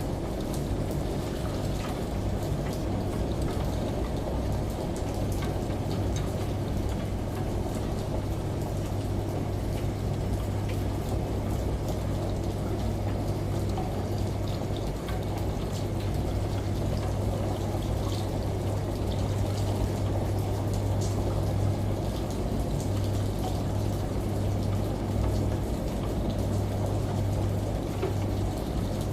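Steady rain and running shower water mixed with a washing machine's constant low hum.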